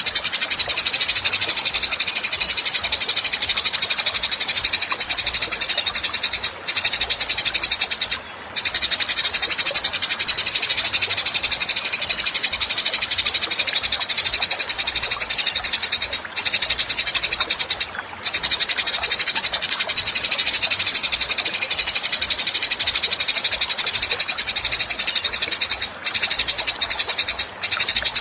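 A rapid, high-pitched trilling call from a masteran track, the kind played for songbirds to copy. It runs in long stretches, broken by a few brief pauses.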